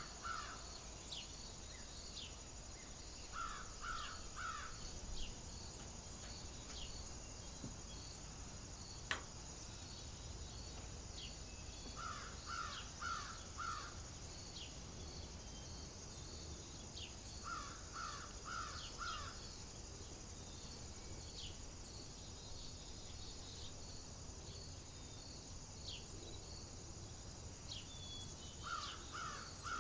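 A crow cawing in runs of three or four caws, repeated every few seconds, over a steady high drone of insects with a regular pulsing chirp and scattered short bird chirps. A single sharp click about nine seconds in.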